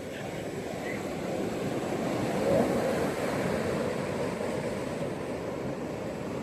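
Ocean surf washing onto a beach, swelling to its loudest about two and a half seconds in and then easing off.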